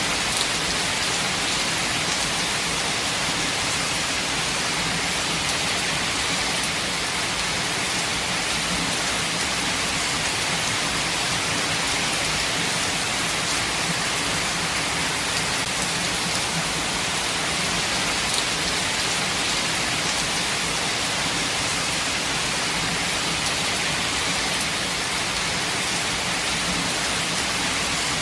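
Steady rain falling in a forest, a dense even hiss of drops with faint scattered patters and no let-up.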